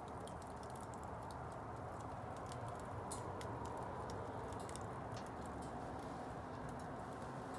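Wood bonfire crackling: many irregular small snaps and pops over a steady low rushing noise.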